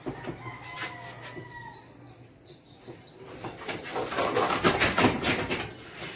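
Bird calls: a fainter drawn-out call in the first two seconds, then a loud, harsh call lasting about two seconds, starting some three and a half seconds in.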